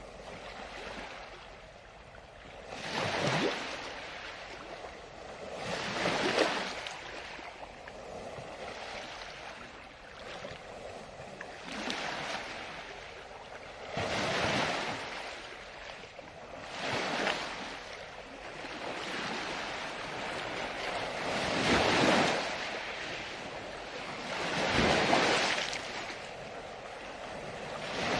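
Ocean surf: waves breaking one after another, each a rushing hiss that swells up and dies away every few seconds, with a constant wash between them.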